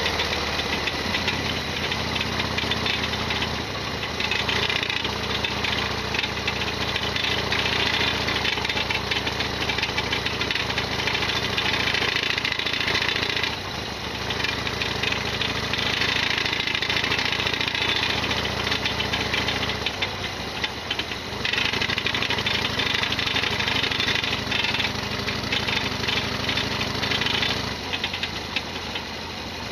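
Harley-Davidson Sportster XL1200R's air-cooled V-twin running under way, with a loud mechanical rattling and clattering over the engine note, the abnormal noise this bike is known for. The engine note changes and briefly drops three times.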